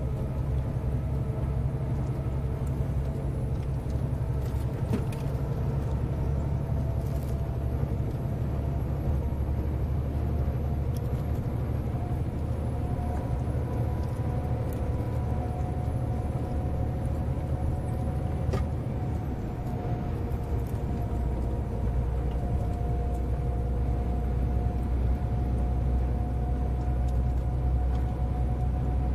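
Scania 143M 470 truck's V8 diesel running steadily, with a deep drone and a whine that rises slightly in pitch, plus a few light clicks.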